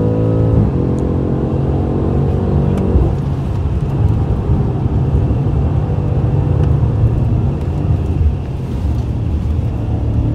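BMW F90 M5's twin-turbo V8, heard from inside the cabin during a hot lap, pulling hard with its pitch dropping sharply about half a second in. The engine note fades about three seconds in, leaving a low rumble with road noise.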